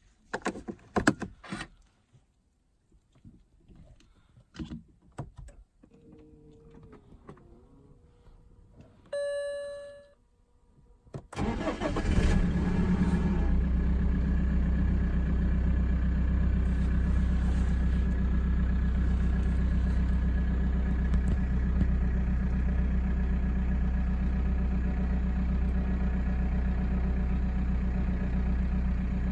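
Cold start of a BMW 320d's M47 four-cylinder diesel: a few clicks and knocks, a short dashboard chime about nine seconds in, then the starter cranks and the engine catches at about eleven seconds and settles into a steady idle.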